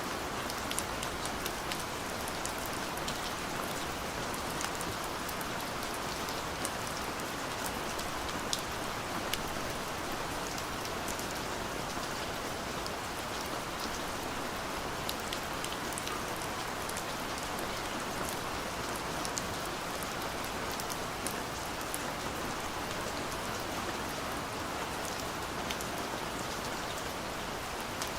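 Steady light rain falling, an even hiss with many small scattered drop ticks and no thunder.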